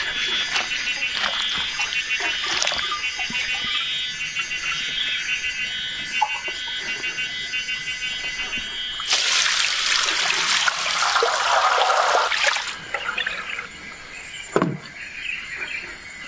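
Water pouring or splashing in a loud rush for about three seconds past the middle, over a rapid high chirping of insects or birds.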